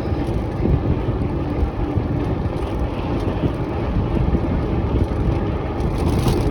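Wind buffeting the microphone over the rumble of a mountain bike's tyres rolling along a track, a steady, low rushing noise.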